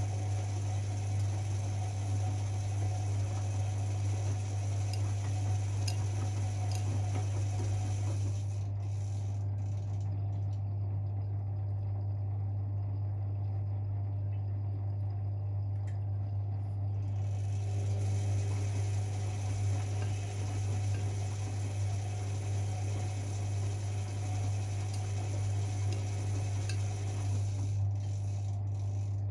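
Privileg 5020 front-loading washing machine running a wash cycle, with a steady low hum and mechanical clicking from the drum drive. The high hiss drops away for several seconds in the middle, then starts again.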